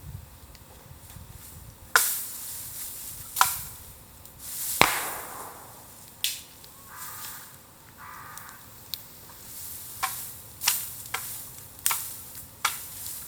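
Bamboo burning in a bonfire, crackling with sharp cracks and pops at irregular intervals, the loudest three in the first five seconds, over a low steady crackle and a brief hiss.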